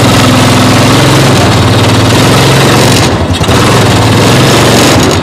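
Motorbike engine of a homemade car running loud and steady as the car drives, with a brief dip about three seconds in.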